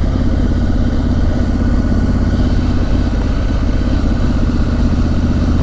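Honda Africa Twin motorcycle's parallel-twin engine running steadily while riding along a road.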